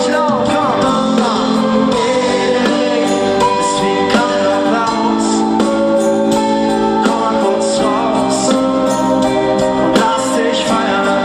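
Live pop band music: held sung notes over guitar and steady percussion, with no clear words.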